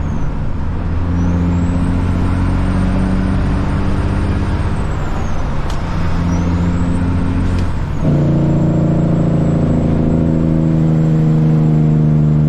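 Caterpillar C-15 diesel engine of a Kenworth truck pulling under load, heard from inside the cab: its note climbs and drops back several times as it works through the gears, growing louder and higher from about two-thirds of the way in.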